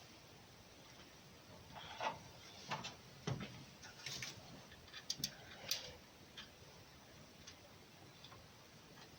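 Faint, irregular light clicks and taps of hand tools and small metal parts being handled during engine work, clustered in the first six seconds and sparser after.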